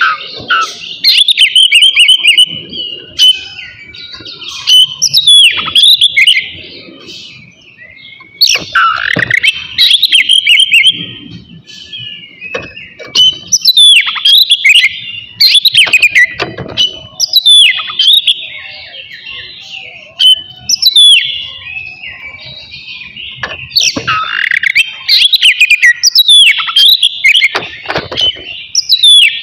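Oriental magpie-robin singing loudly: a varied song of sharp whistled sweeps and quick, rapid runs of notes, delivered in bursts every second or two.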